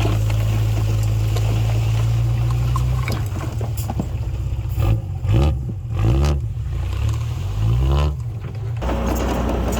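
Heavy diesel engine of earthmoving machinery running steadily, then from about three seconds in revving up and down in about four quick surges before settling back to a steady run near the end.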